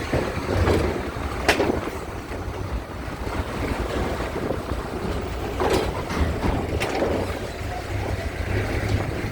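Low, steady rumble of a ferry's engines mixed with wind noise, with three sharp metallic knocks, about one and a half, five and a half, and seven seconds in.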